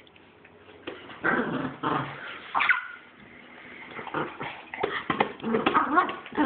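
Dog making short, uneven bursts of vocal sounds while tussling over a ball in play.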